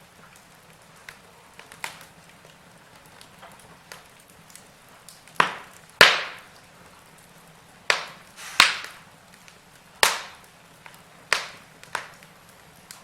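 Logs burning in a fireplace, crackling: a few small ticks at first, then about seven louder, sharp pops from about five seconds in, over a faint steady hiss of the fire.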